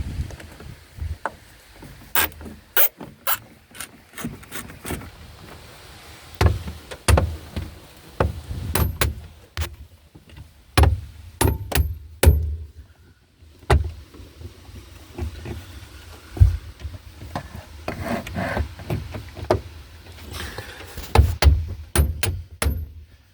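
Irregular metallic clicks, knocks and scraping from hand tools and loose parts being handled in a car interior, with a few duller thumps.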